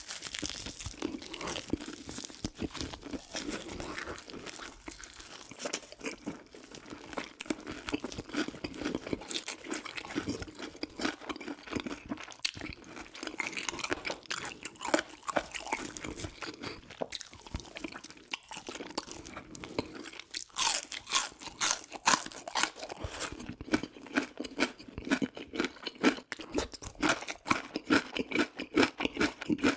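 Close-up crunching and chewing of crispy fried chicken, bite after bite, the crunches growing louder and thicker about two-thirds of the way through.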